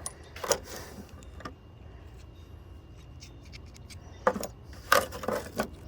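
Small metal tool bits being handled and set down: a few short clicks and knocks, a quiet stretch, then a quick cluster of knocks near the end.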